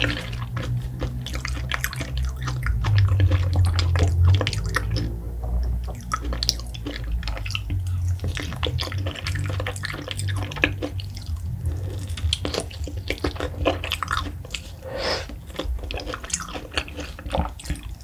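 Close-miked wet chewing, sucking and slurping on ripe mango flesh: a dense run of small wet clicks and smacks over a low steady hum.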